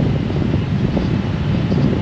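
Steady, loud wind noise buffeting the microphone over the low rumble of a Honda Gold Wing DCT motorcycle and its tyres under way.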